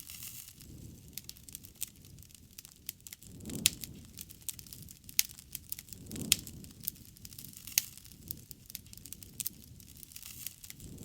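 Wood campfire burning: irregular sharp pops and crackles over a soft low rush of flames that swells a few times.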